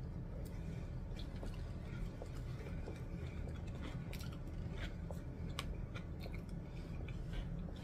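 A person chewing a mouthful of fast food, with many small scattered mouth clicks.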